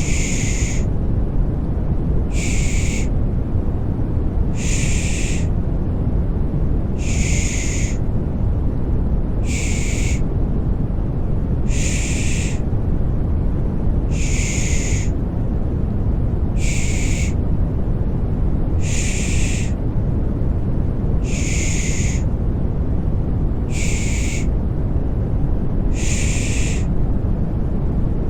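A rhythmic 'shh' shushing repeats about every two seconds over a steady rumbling white noise, heavy in the low end: a baby-soothing sleep sound.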